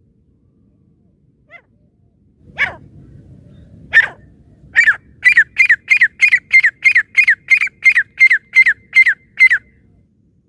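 Francolin (teetar) calling: two or three single notes, then a fast, even run of about fourteen loud calls, roughly three a second, each note dropping in pitch. A low rumble sits under the first notes.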